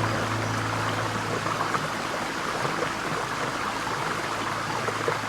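Running water rushing steadily, like a stream or small waterfall, with a low steady hum that fades away in the first second or two.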